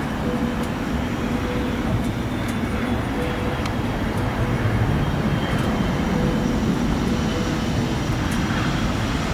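Jet airliner engines running steadily: a constant rumble with a faint high whine.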